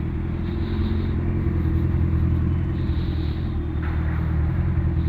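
BMW S1000RR's inline-four engine running at a steady speed while the bike is ridden: an even, low rumble with no revving.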